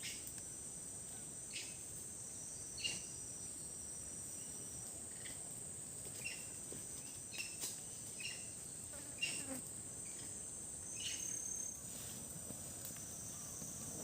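Steady high-pitched drone of forest insects, with a second thin insect tone that comes and goes. Scattered short ticks and taps sound over it.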